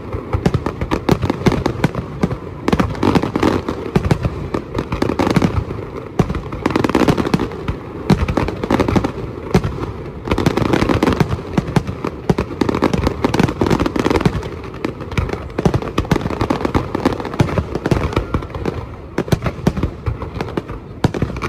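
Fireworks display: aerial shells bursting in a dense, continuous barrage of bangs and crackles, with no pause between bursts.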